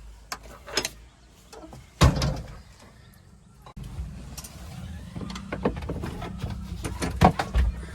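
Scattered knocks and clanks, the loudest about two seconds in, then a heavy machine's engine running steadily from about four seconds in, with more knocks over it.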